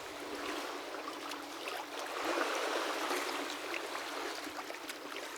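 Seawater sloshing and trickling around a kayak, with scattered small drips and splashes.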